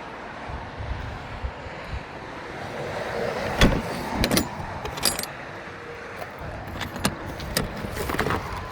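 A series of sharp clicks and knocks, about six spread over the last five seconds, over a low steady background noise.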